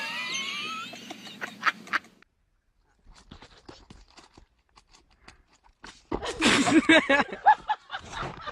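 Animal calls: rising squeaky cries with a few sharp clicks for the first two seconds, a lull with faint taps, then a loud run of short rising-and-falling calls about six seconds in.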